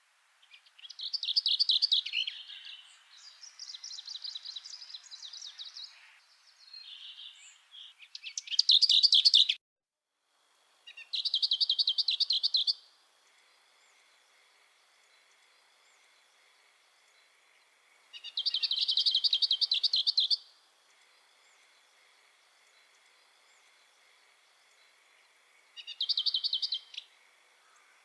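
A songbird singing in short, rapid trilled phrases, each a second or two long, repeated about five times with pauses of several seconds between them.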